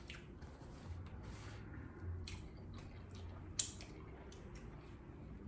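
Faint mouth sounds of someone eating pasta: soft chewing and lip smacks, with one sharper smack a little past halfway.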